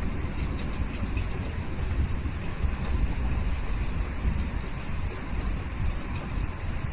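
Steady rain falling, an even hiss with faint scattered drop ticks over a constant deep low rumble.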